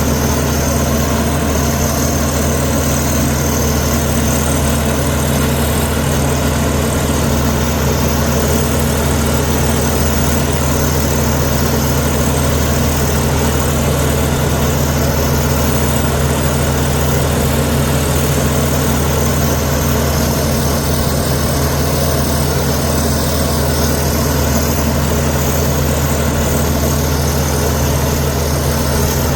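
Heavy diesel engine of a Komatsu D61EX crawler bulldozer running at a steady, unchanging engine speed, a loud, even drone with no revving or pauses.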